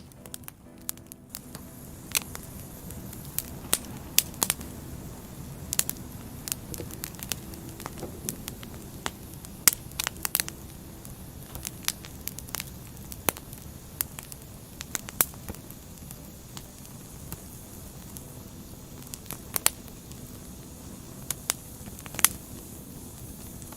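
Wood fire burning: irregular sharp crackles and pops of burning firewood over a steady low rush of flames.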